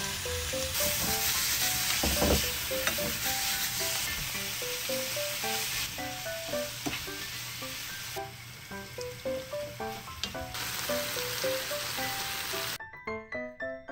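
Pork, carrot, udon noodles and broccoli sizzling as they stir-fry in a hot nonstick frying pan, with a wooden spoon now and then knocking and scraping the pan. The sizzling cuts off suddenly near the end.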